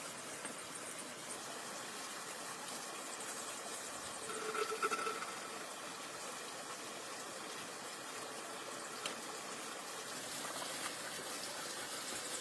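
Steady watery hiss, with a brief pitched sound about four to five seconds in.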